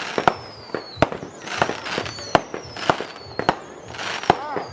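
Consumer fireworks going off in quick succession: sharp bangs about twice a second with crackling between them, and a thin high whistle falling in pitch.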